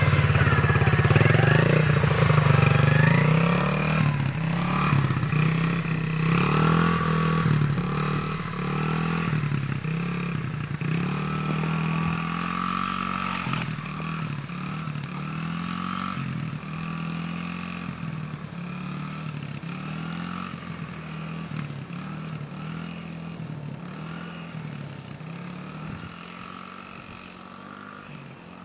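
Dirt bike engine running and revving up and down again and again, fading steadily throughout.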